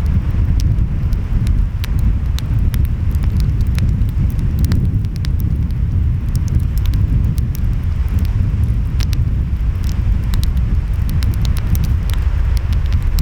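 Wood fire crackling, with many sharp pops scattered irregularly, over a steady low rumble of ocean waves and wind.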